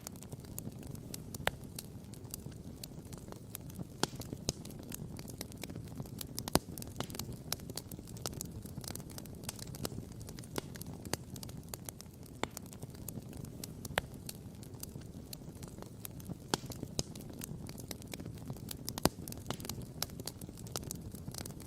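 Wood campfire crackling and popping: many sharp, irregular pops, a few louder ones, over a steady low rumble.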